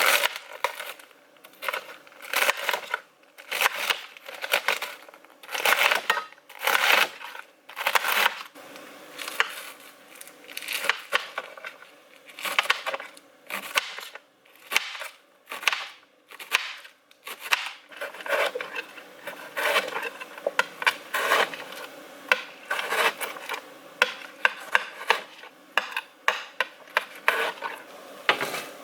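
Dishes and utensils knocking and clattering in an irregular run of clicks and clinks, often several a second.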